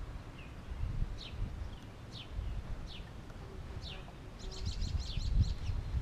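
Backyard songbird calls: short high notes sliding downward, about one a second, then a quick chattering run near the end. A low wind rumble on the microphone runs underneath.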